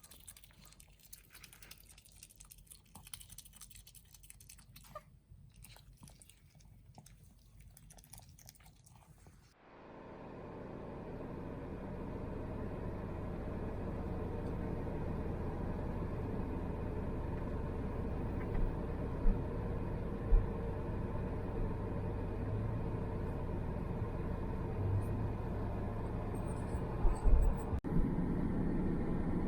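A small pet chewing and crunching food in faint, scattered clicks. About ten seconds in this gives way to a steady low rumble like a car driving, with a few short thumps later on.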